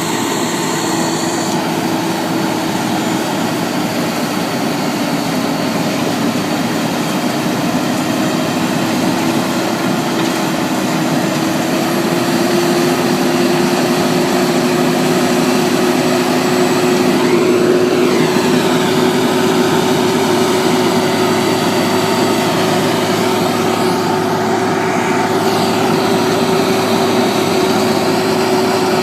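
Road-work machinery in the street running continuously and loudly, a dense mechanical noise with a steady hum that creeps slightly up in pitch over the first dozen seconds and then holds.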